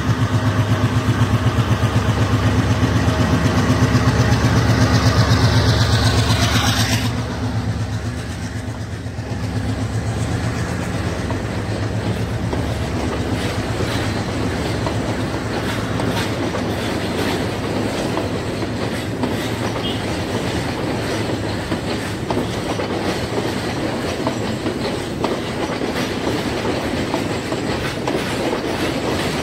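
A diesel locomotive's engine running loud and steady as it approaches, cutting off sharply about seven seconds in as it passes beneath. Then the passenger coaches roll by with the clickety-clack of their wheels over the rail joints.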